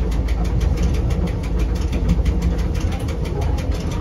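Rigi mountain railway train running steadily, heard from the driver's cab: a low rumble with a fast, even ticking of about eight a second.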